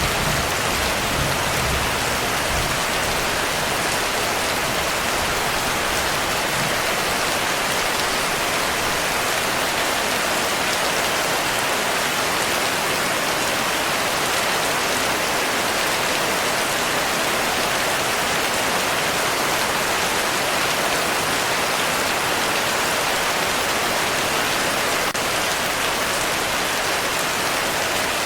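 Heavy rain falling steadily, a dense even hiss with no letup. The low rumble of a thunderclap dies away in the first second.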